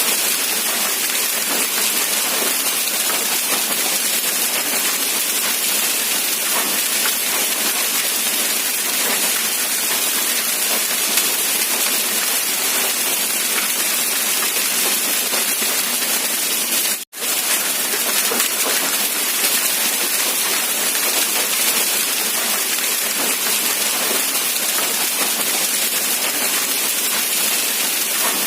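Steady rain falling, an even hiss of drops. About two-thirds of the way through, the sound cuts out for a split second and comes straight back.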